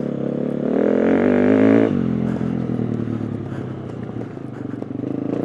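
Single-cylinder four-stroke engine of a 2020 KTM 350 EXC-F dirt bike, ridden on a motocross track. It revs up under throttle for about a second and a half, drops off sharply as the throttle closes, runs lower, then picks up again near the end.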